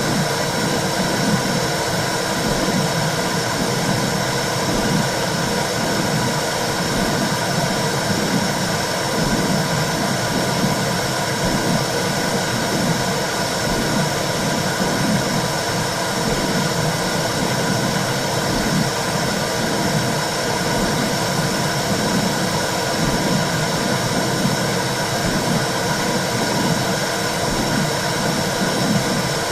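Womb sound for soothing a baby: a steady whooshing noise with a low rumble that wavers constantly underneath.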